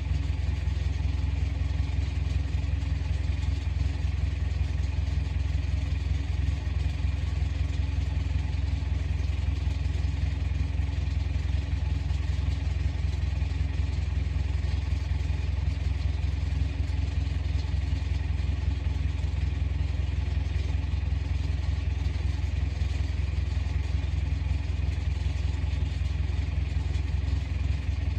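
Komatsu bulldozer's diesel engine running steadily at a constant speed, a loud low hum with no changes in pitch.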